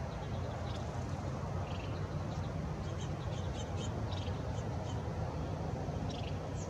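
Small birds chirping: short, high notes scattered throughout, several in quick runs, over a steady low rumble.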